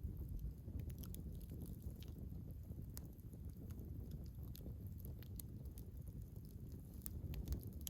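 Campfire logs crackling: scattered sharp pops and snaps at irregular intervals over a low, steady rumble.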